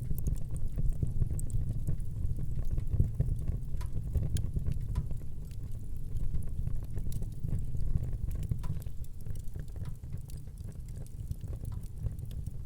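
Wood fire burning, a steady low rumble of flames with frequent small sharp crackles and pops scattered throughout.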